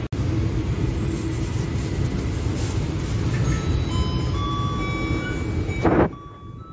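Rumble of a moving train heard from aboard, while an electric commuter train rushes past close alongside, adding steady whining tones. Near the end the noise swells, then drops off suddenly as the passing train clears.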